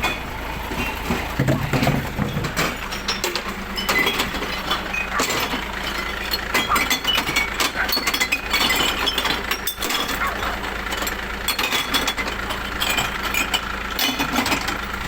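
Glass bottles and jars pouring into a glass-recycling truck's body, a dense run of clinking and smashing glass, over the truck's diesel engine running.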